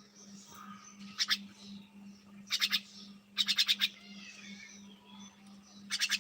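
Small pet birds chirping: short quick runs of three to six sharp, high chirps, repeating a few times, with softer twittering in between.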